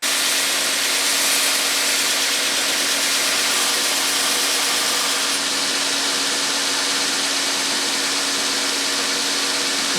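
Belt sander with a 120-grit belt running steadily, grinding the steel jaw of an open-end wrench to enlarge it: a steady motor hum under an even grinding hiss.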